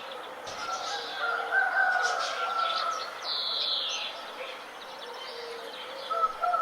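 Birds singing and calling: a held, wavering call for a couple of seconds, then a high whistle sliding downward about three seconds in, over a soft steady background.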